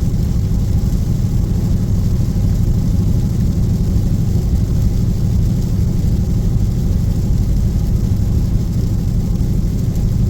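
Dodge Scat Pack cruising steadily at about 60 mph, heard from inside the cabin: an even low drone of engine, tyre and road noise on a wet highway.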